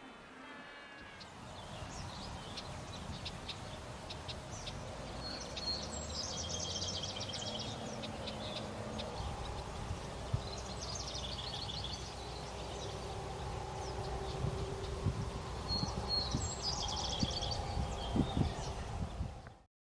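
A bird calling in three short bursts of rapid, high chirping, about six, eleven and seventeen seconds in, over steady outdoor background noise.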